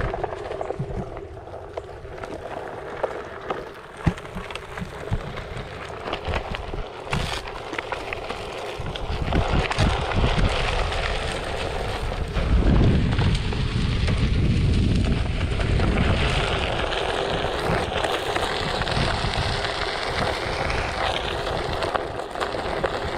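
Onewheel XR's tyre rolling over a dirt trail, with grit and small stones crackling under it and wind buffeting the microphone in gusts. In the second half a faint motor whine rises and falls in pitch with speed.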